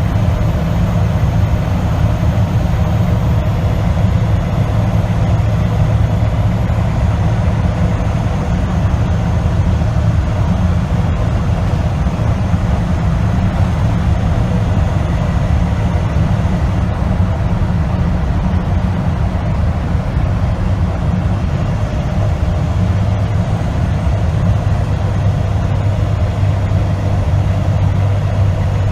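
Semi truck driving at a steady speed: an even, unbroken low engine and road drone.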